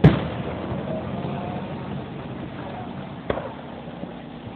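Aerial fireworks shells bursting: a loud bang with a short echoing tail right at the start, and a fainter bang about three seconds later, over steady background noise.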